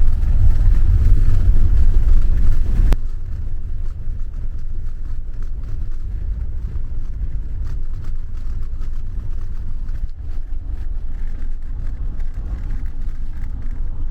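Steady low rumble of a moving vehicle with some wind noise. It is loud for about the first three seconds, then drops suddenly to a quieter, steadier rumble.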